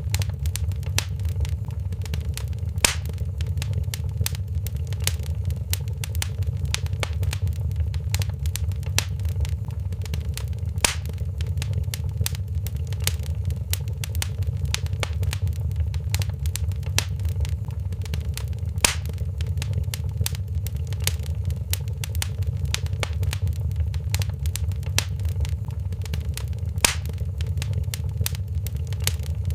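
Fireplace crackling: many small snaps and ticks over a steady low rumble, with four louder pops about eight seconds apart.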